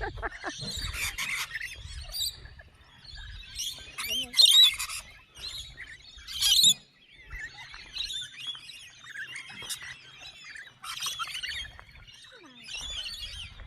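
Small birds chirping and twittering, many short high chirps overlapping throughout, with louder bursts about four and a half and six and a half seconds in.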